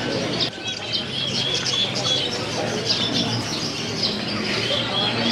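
Many caged birds chirping and calling at once: a busy chorus of short, repeated high calls over a steady low hum.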